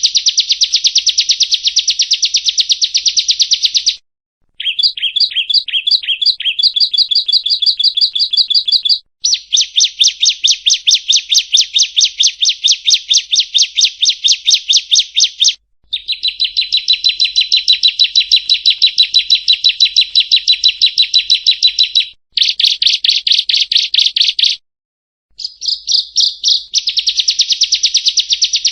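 Ciblek kristal (bar-winged prinia) singing in long runs of fast, rapidly repeated high chirping notes. The runs are broken by brief pauses, and one shorter stretch of slower, stuttering notes comes a few seconds in.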